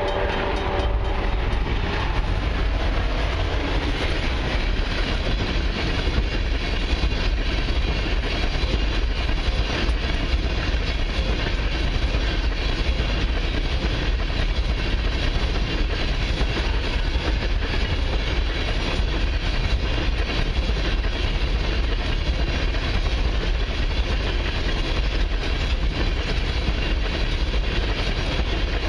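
Long freight train of empty crude-oil tank cars rolling past: a steady, loud rumble and clatter of wheels on rail. The locomotive horn's chord trails off in the first second.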